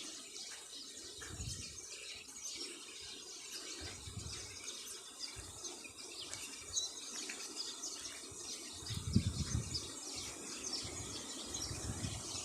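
A flock of small birds chirping and twittering together as they settle in the trees to roost at dusk. A few low rumbles come under it, the loudest about nine seconds in.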